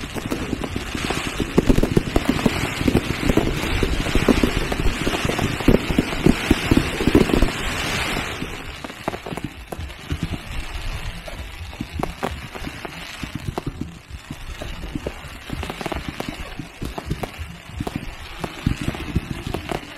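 Fireworks going off in a loud, dense crackle for roughly the first eight seconds, then thinning to scattered pops and bangs.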